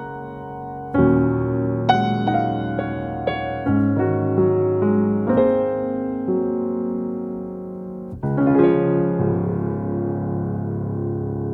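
Background piano music: slow struck notes and chords, each ringing and fading, with a last chord about eight seconds in left to ring out.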